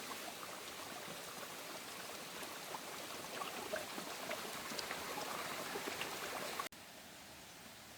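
Rain and running water with scattered drips, growing a little louder before cutting suddenly to a quieter hiss near the end.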